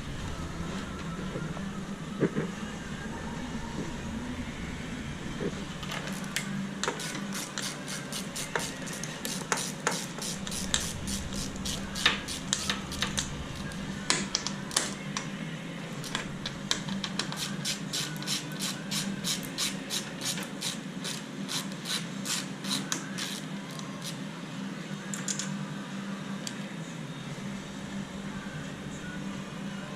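Workshop tool noise during engine removal on a car: runs of quick sharp clicks and some scraping over a steady low hum, with music faint in the background.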